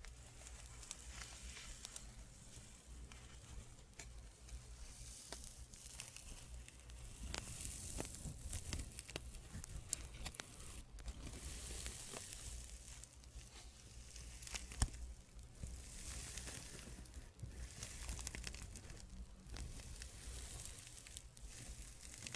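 Fabric being rubbed close to the microphone: soft friction rustling that swells and fades every second or two, with a few light clicks.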